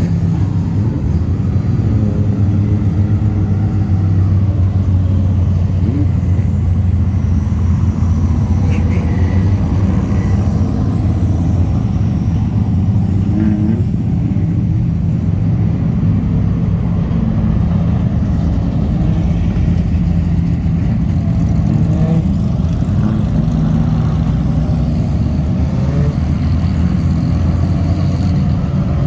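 Speedway race car's engine running steadily at slow parade speed, a low drone that hardly changes in pitch.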